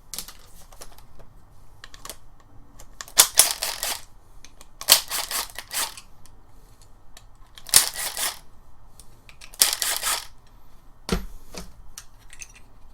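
Four short, scratchy strokes of marking on gasket paper, each just under a second long, then a single low thump near the end.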